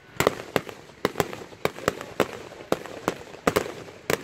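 Aerial fireworks shells exploding overhead in a rapid, uneven string of sharp bangs, about four a second.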